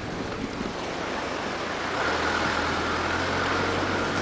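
A steady rushing noise, with a motor's low steady hum and a thin whine joining about two seconds in.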